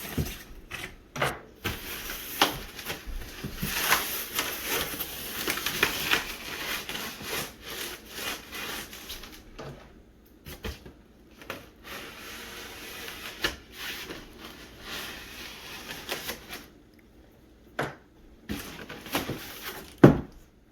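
Cardboard boxes and styrofoam packing being handled: irregular rustling and rubbing with scattered knocks and clicks, and one sharp knock near the end.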